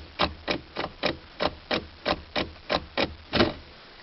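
Knuckles rapping on a hard surface in a steady rhythm, about three knocks a second, stopping shortly before the end.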